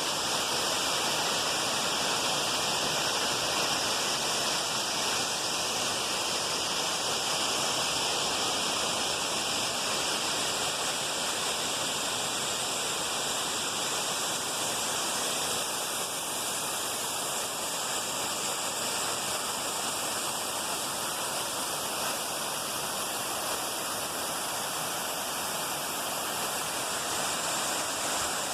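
Waterfall pouring steadily down a cliff: a continuous even rush of falling water, with no other sound standing out.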